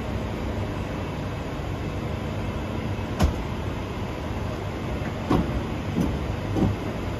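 Passenger train running on the track: a steady rumble, with a sharp knock about three seconds in and a few thumps in quick succession near the end.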